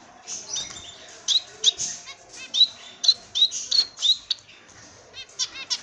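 Small birds chirping: many short, sharp calls, some with a quick sweep in pitch, coming in a quick irregular run.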